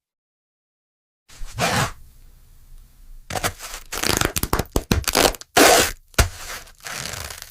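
Silence for about a second, then a series of loud, sharp cracking noises, the loudest a little before two-thirds of the way through.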